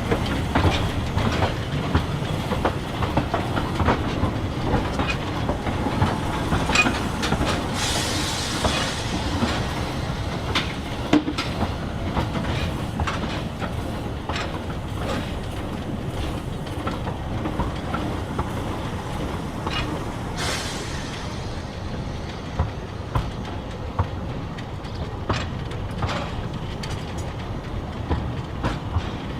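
Narrow-gauge steam train running along the line: a steady rumble with wheels clicking irregularly over the rail joints, and a brief rushing hiss twice.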